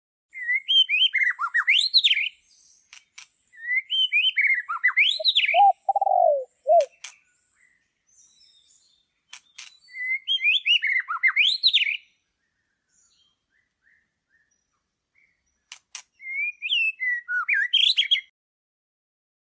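A songbird singing four warbling phrases, each about two seconds long and a few seconds apart, with a short, lower, falling call just after the second phrase.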